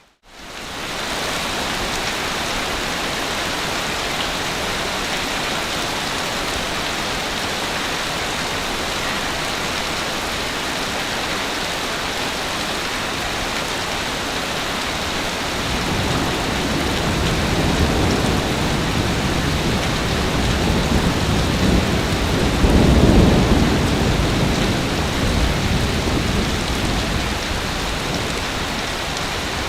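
Ocean waves on a beach: a steady hiss of surf, with a wave building in a low rumble from about halfway through, loudest about three-quarters of the way in, then washing back down. The sound drops out for a moment at the very start.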